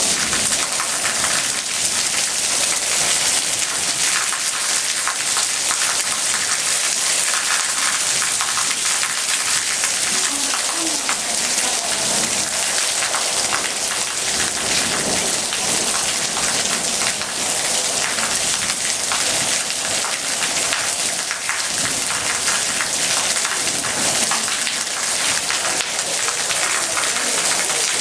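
Heavy rain pouring steadily onto rooftops and walls, a dense, even hiss.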